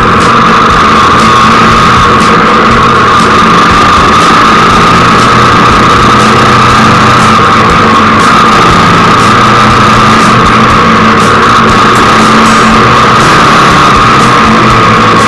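Hero XPulse 200's single-cylinder engine running at a steady, unchanging pitch while the bike is ridden. The sound is very loud and steady throughout.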